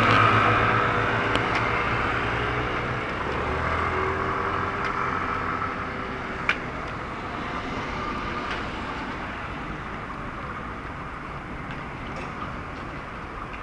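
A train passing the crossing and running away into the distance. Its steady hum dies out within the first few seconds, and the rumble grows gradually fainter.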